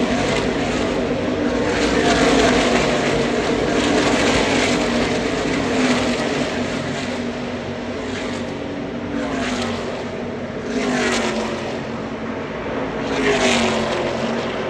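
NASCAR Craftsman Truck Series race trucks' V8 engines at racing speed, with several trucks passing by one after another, each rising to a peak and dropping in pitch as it goes past.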